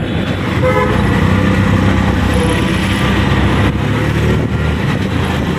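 Auto-rickshaw engine running steadily with a loud low drone while the vehicle is under way.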